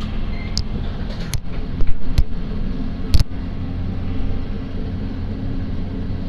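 Electric MEMU train running slowly out of a station, heard from on board: a steady low rumble and hum, with a few sharp clacks of the wheels, the loudest about two and three seconds in.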